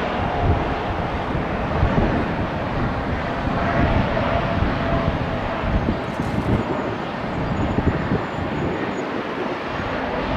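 Jet airliner engines running loud and steady, with a faint whine in the middle, mixed with wind gusting on the microphone.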